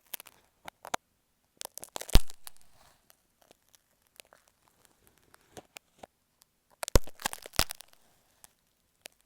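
Marking pins scratching and tapping right on an earphone microphone: clusters of close, crackly scrapes and clicks. The loudest cluster comes about two seconds in and another near seven seconds, with quiet gaps between.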